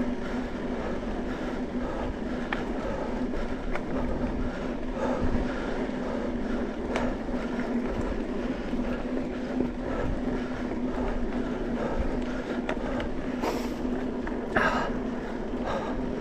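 Riding along a dirt trail: a steady hum under constant rattling and clicking, with a couple of short, louder sounds near the end.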